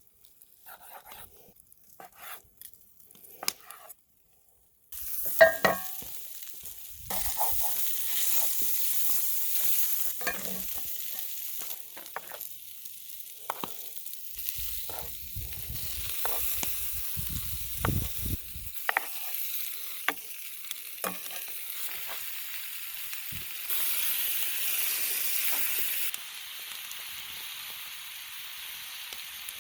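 Steak and vegetables sizzling in a pan over a campfire, with the scrapes and clicks of a utensil stirring them. The first few seconds hold only scattered clicks and knocks; the sizzling starts about five seconds in and steps up and down in level several times.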